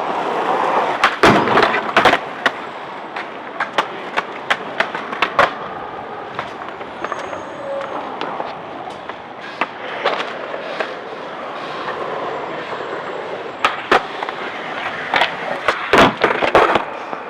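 Skateboard wheels rolling on a grind box, broken by many sharp clacks and knocks from the board hitting and grinding the obstacle, with clusters of hits about a second in, around the middle and near the end.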